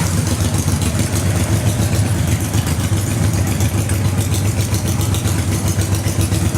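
Harley-Davidson motorcycle's V-twin engine idling steadily and loudly.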